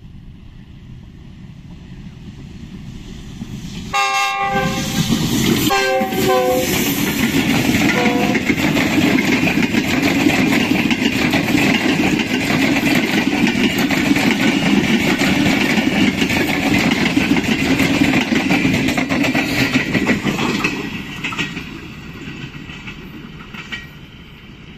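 Diesel-electric locomotive of an inspection special train sounding its multi-tone horn three times, starting about four seconds in, as it comes past close by. The loud rumble and wheel clatter of the locomotive and coaches passing follow, and fade away near the end as the train recedes.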